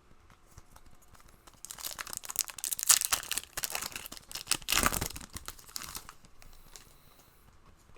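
A trading-card pack's wrapper being torn open and crinkled: a busy run of crackling from about a second and a half in to about six seconds, then fading.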